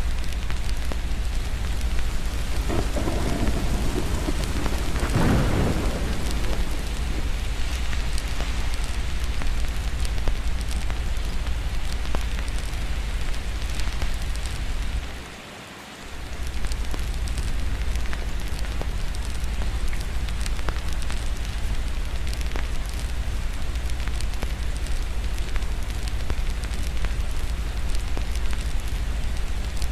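Steady rain with a low rumble of thunder a few seconds in, over the small crackles of a fireplace. The sound dips briefly for about a second halfway through.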